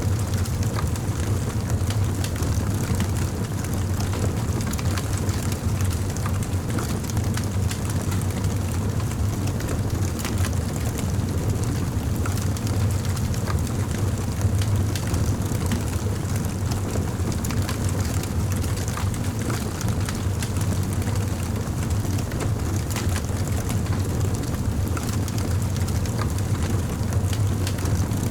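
Campfire burning: a steady low rumble with many small crackles and pops scattered throughout.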